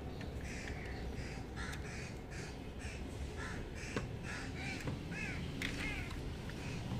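A bird calling over and over outside, a run of short calls at about two a second.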